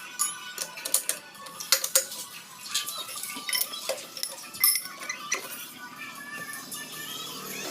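Metal clinking and clanking: a run of sharp strikes with a ringing tail, like steel parts or tools knocking together, over background music.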